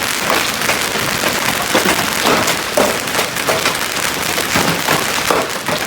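Hailstones falling hard and steadily, a dense, loud clatter of many sharp impacts on hard surfaces.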